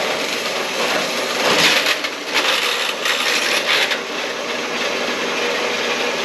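Bandsaw blade cutting through stainless steel exhaust pipe: a steady, loud rasping hiss that begins abruptly and grows harsher for a few seconds about a second in.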